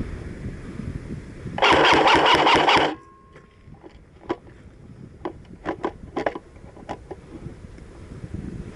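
An airsoft gun firing a rapid burst of about a second and a quarter, the loudest thing here, followed by a scattering of sharp clicks or snaps. Wind rumble on the microphone comes before the burst.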